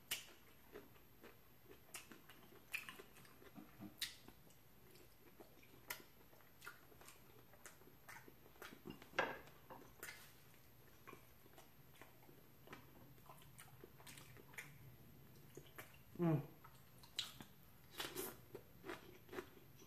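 A person eating close to the microphone: wet chewing and lip smacks over rotisserie chicken and sauce-dipped bell pepper, heard as scattered soft clicks, with a few louder ones about nine seconds in and again after sixteen seconds.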